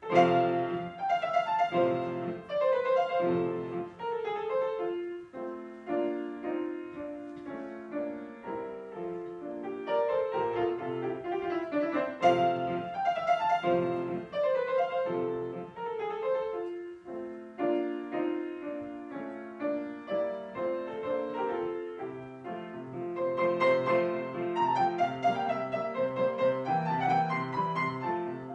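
Piano playing classical music, a flowing melody over chords; it begins with a struck chord after silence.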